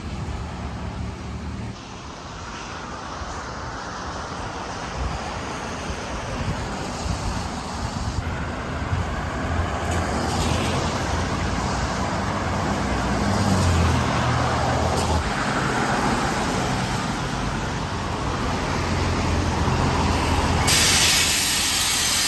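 City road traffic with a heavy vehicle's engine running at a low hum, growing gradually louder, and a loud burst of hissing air near the end.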